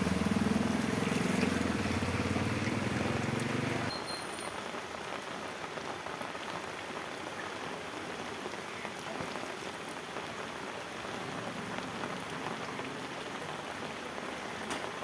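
Steady heavy rainfall hissing on surfaces. For the first four seconds a low engine hum runs under it, then cuts off suddenly.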